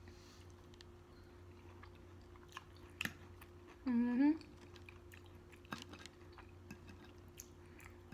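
Close-miked chewing of a mouthful of snow peas and bell pepper, with scattered wet mouth clicks and smacks. About four seconds in comes a short hummed 'mm' that rises in pitch.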